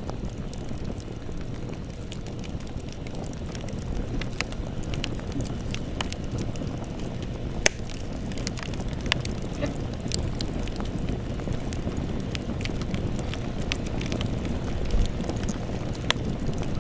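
Campfire burning: a steady low rush of flames with irregular sharp crackles and pops of burning wood, one louder pop about halfway through.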